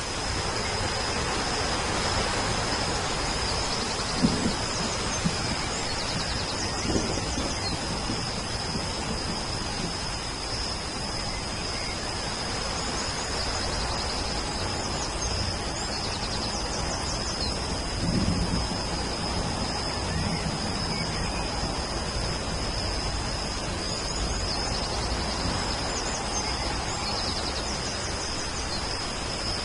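Steady rain, with a few low rumbles of distant thunder and birds chirping briefly in short high bursts several times over a constant high-pitched tone.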